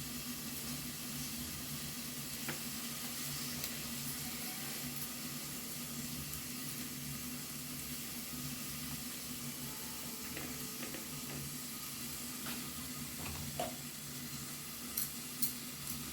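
Onion, potato and tomato filling frying gently in butter in a covered pan: a faint, steady sizzle over a low hum, with a few light clicks near the end.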